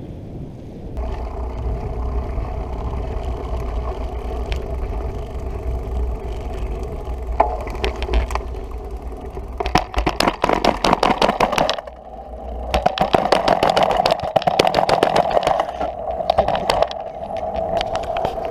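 Bicycle riding with a steady rumble, then two stretches of fast rattling clatter from the bike jolting over rough ground.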